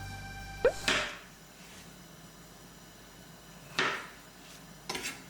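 A ringing jingle-like music cue dies away in the first second. Then come three short noises, about a second in, near four seconds and near five.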